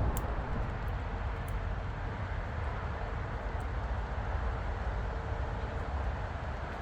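Steady low rumble of distant traffic, with a few faint ticks.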